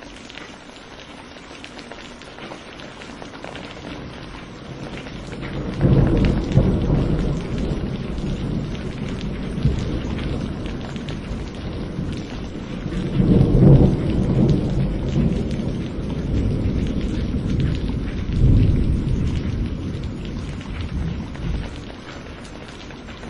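Thunderstorm: steady rain with a long, deep roll of thunder. The thunder begins about six seconds in, swells twice more and dies away near the end.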